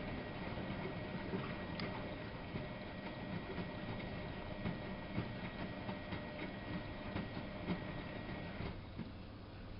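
Miele Novo Super W933 washing machine running with water rushing and splashing inside, steady throughout, easing off slightly near the end.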